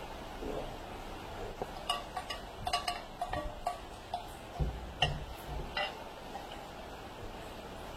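Steering rack parts being handled and fitted: a quick run of sharp metallic clinks and taps with a short ring, and a couple of dull knocks, during the middle few seconds.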